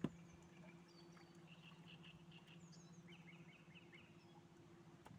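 Faint birdsong: short high chirps repeated in quick runs, some falling in pitch, over a steady low hum that stops near the end. A single sharp knock right at the start is the loudest sound.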